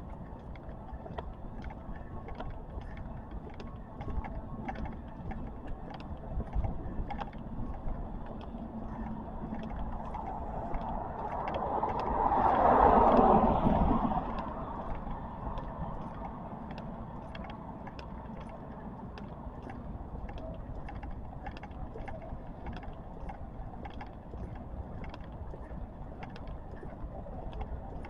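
Steady outdoor traffic background with a vehicle passing close by about twelve to fourteen seconds in: it grows louder, peaks, and fades away as its pitch drops.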